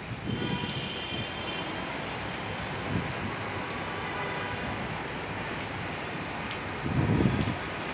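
Heavy rain falling steadily, with a brief low rumble about seven seconds in.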